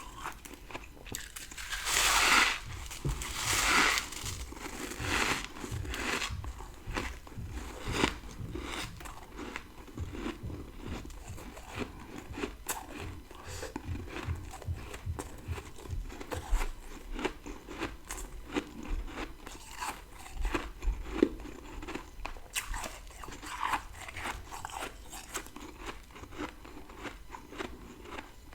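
Close-up biting and chewing of dry freezer frost: two big crunching bites near the start, then a long stretch of crackly, gritty chewing, with another crunchy bite about three-quarters of the way through.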